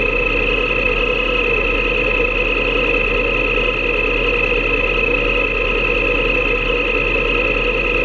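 Motorcycle engine running at a constant cruising speed: a steady drone with a held, high whine that does not rise or fall, over wind rush.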